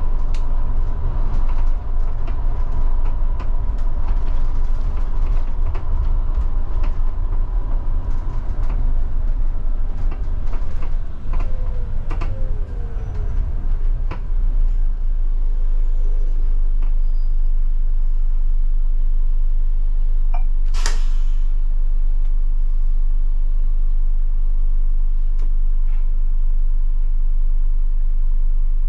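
Scania K250IB bus's diesel engine running, with a whine for the first several seconds and creaks and rattles from the body. About halfway it settles into a steady even rumble, and a single brief sharp sound cuts in about two-thirds of the way through.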